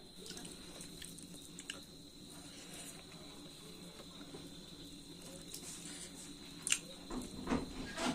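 Close-miked mouth sounds of a person chewing and biting chicken, wet and squishy with small scattered clicks. There is a few louder clicks and knocks near the end.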